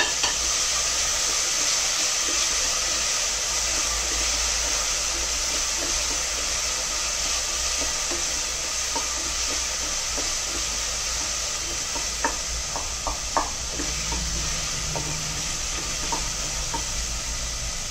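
Tomatoes, shallots and green chillies sizzling steadily in hot oil in an aluminium pressure cooker as a wooden spatula stirs them, with a few light knocks and scrapes of the spatula on the pot about two-thirds of the way through.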